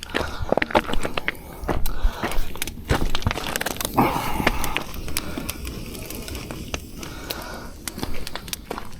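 Irregular clicking and crackling, like hands handling something, with a denser burst about four seconds in.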